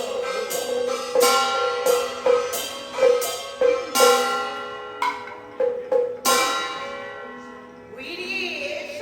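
Beiguan ensemble music: metal percussion struck in an irregular pattern, each strike ringing on, over a steady held tone. The strikes thin out and stop about two-thirds of the way through, and voices come in near the end.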